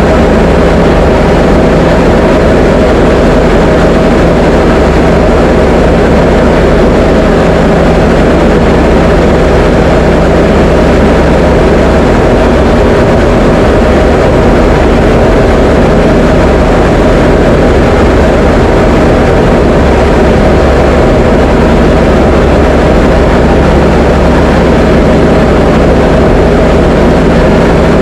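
Diamond DA20's piston engine and propeller heard from inside the cockpit: a loud, steady drone with a low hum that holds at constant power, as in flight.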